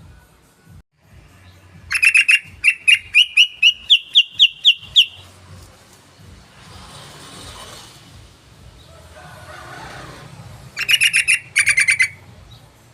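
Yellow-vented bulbul (trucukan) singing its chattering song: a fast run of about a dozen notes, rising slightly in pitch, about two seconds in, then a shorter burst near the end.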